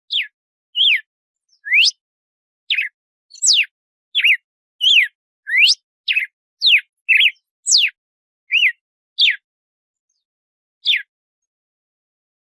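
Red-cowled cardinal (galo-de-campina) singing its 'açoite' song: a brisk series of about fifteen clear, short whistled notes, each sweeping sharply up or down in pitch. After a pause near the end comes one last note.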